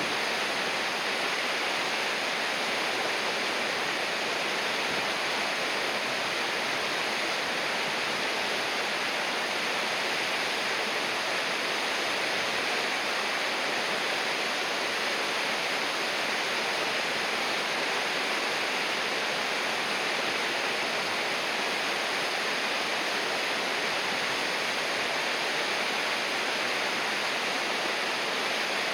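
River water rushing in a steady, unbroken hiss, with no change in level throughout.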